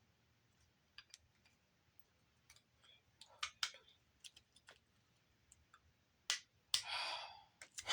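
Scattered light clicks and taps of small parts being handled while a Blu-ray player is taken apart, with a longer, noisier sound near the end.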